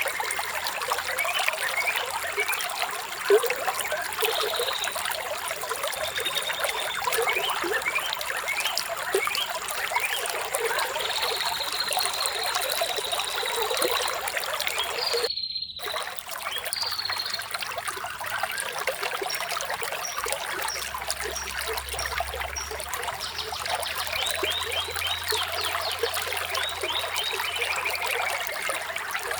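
Water trickling and flowing steadily, with many short chirping calls over it and a high, held call for a few seconds before the middle. The sound cuts out for an instant about halfway through.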